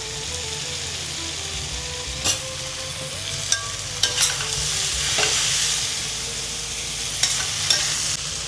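Spiced mashed-potato and tomato mixture frying in mustard oil, with a steady sizzle. A utensil knocks and scrapes against the pan several times as it is stirred.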